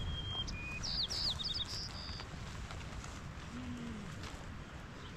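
A small bird chirping a quick run of short, high, falling notes and one brief held note in the first couple of seconds, over a steady low rush of outdoor background noise.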